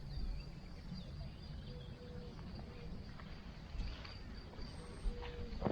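Faint rural ambience: a steady high insect trill, a few short low bird calls spaced a second or more apart, and a low rumble underneath.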